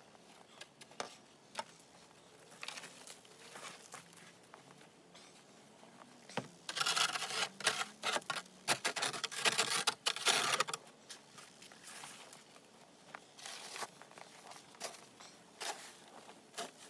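Scraping and crunching in snow, with scattered short scrapes and one longer, louder run of scraping about seven seconds in.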